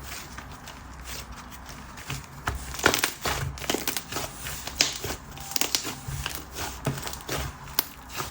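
Slime being squished and stretched by hand, making irregular sticky clicks and small pops that start about two seconds in and come thick and fast after that.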